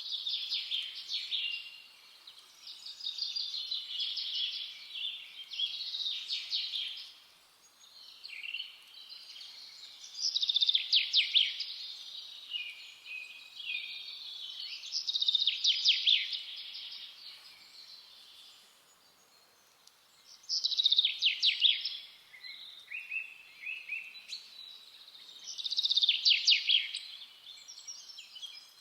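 Songbird song: a run of quick trilled phrases, each about two seconds long, repeating every few seconds with short pauses, over a faint steady outdoor hiss.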